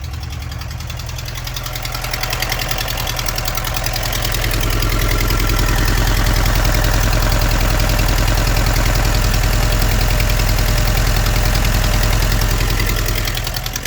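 Car engine running with a rapid knock, getting louder over a few seconds, holding, then falling back near the end. The knock is the sign of internal engine damage from running without oil after the oil pressure warning was ignored: a shot block.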